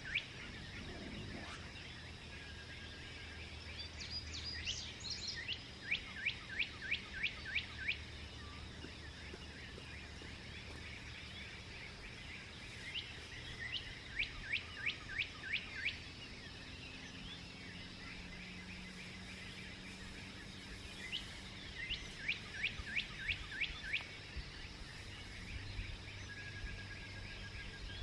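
A songbird singing repeated phrases of quick down-slurred whistled notes, about four notes a second, each phrase lasting a couple of seconds and coming back every few seconds. Fainter chirping from other birds sits behind it, over a low steady hum.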